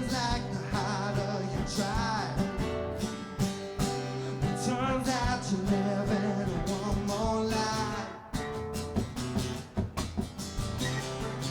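Acoustic guitar music with a melody that bends and wavers in pitch over held chords. From about eight seconds in it turns quieter, with sharp, choppy strums.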